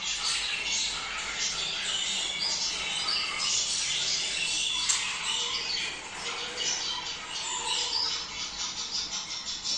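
Several budgerigars calling at once: a dense, unbroken chatter of overlapping high chirps and squawks, the budgie mating chatter sold as a breeding stimulus.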